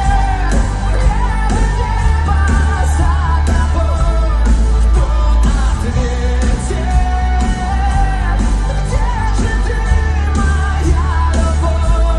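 Pop-rock song with a heavy, steady bass and a male voice singing long, held melodic lines without clear words.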